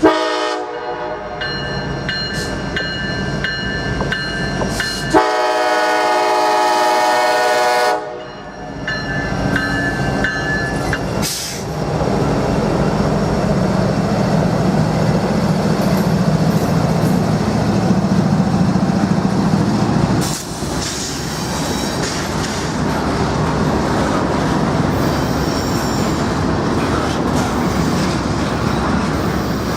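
Norfolk Southern train sounding its air horn, loudest in a long blast from about five to eight seconds in. The train then rolls past with a steady rumble and wheel clatter.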